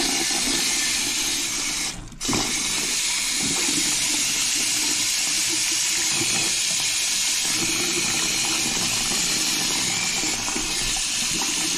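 Water running from a newly installed sink faucet into the basin: a steady rush that breaks off briefly about two seconds in, then runs on. The faucet is being run to test the new installation.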